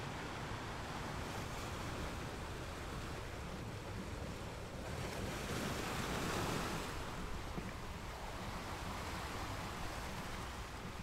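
Wind and ocean-surf ambience: a steady rush of noise that swells for a couple of seconds around the middle and eases back.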